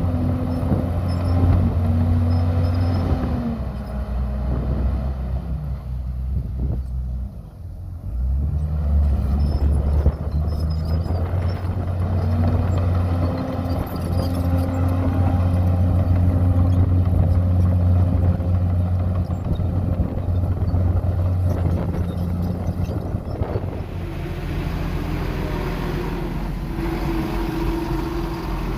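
Heavy earthmoving diesel engine running steadily. Its revs sag from about three seconds in to a low dip near eight seconds, then climb back and hold.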